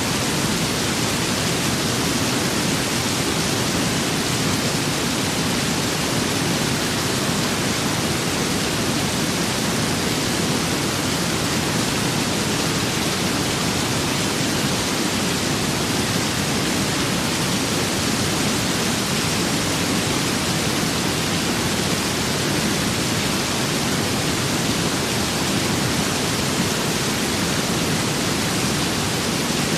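Rain and wind storm ambience: a steady, even hiss with no distinct drops, gusts or thunder, unchanging throughout.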